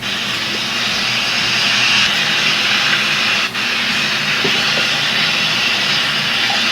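A steady, loud hiss, with a brief dip about three and a half seconds in.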